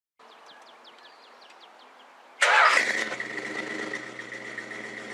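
A car engine cranks and fires about two and a half seconds in, then settles straight into a steady idle with a thin high whine over it.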